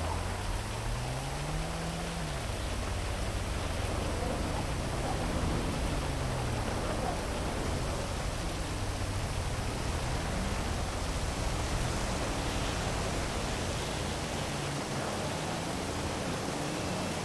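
Heavy rain falling steadily over a city, with the low sound of traffic underneath. Engine tones rise and fall as vehicles pass, most clearly in the first two seconds.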